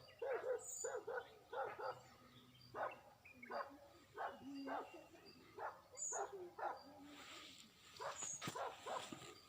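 A dog barking repeatedly in quick runs of short barks, with a faint hiss of noise near the end.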